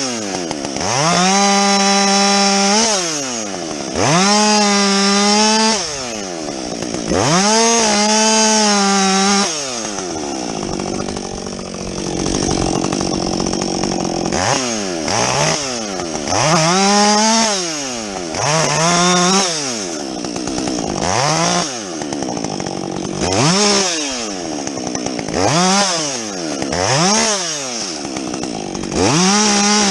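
Husqvarna 562XP two-stroke chainsaw with a modified muffler, revved to full throttle in about ten bursts of one to two seconds and dropping back between them while cutting limbs off a felled tree.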